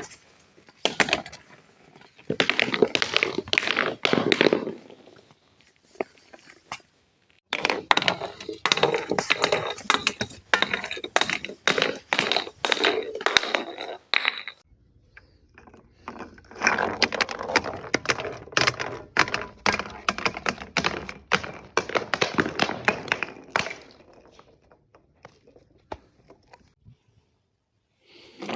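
Objects being crushed: rapid crackling and crunching made of many sharp cracks, in several long stretches of several seconds each with short pauses between.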